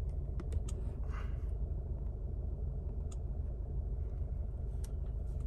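Steady low rumble, with a few light clicks scattered through it.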